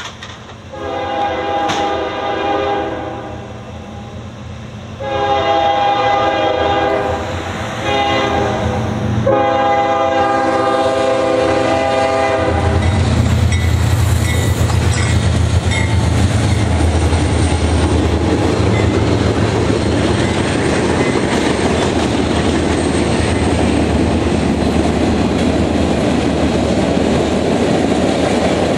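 Freight locomotive horn sounding the grade-crossing signal, long, long, short, long, as a multi-note chord. The diesel locomotives then pass with a loud low rumble, followed by the steady rolling noise of freight cars on the rails.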